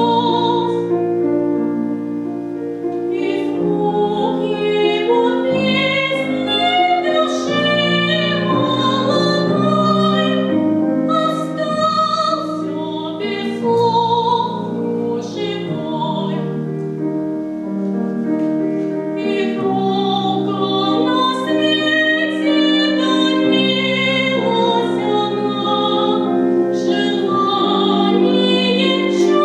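A solo female voice sings in a classical, operatic style with vibrato and long held notes, accompanied by piano.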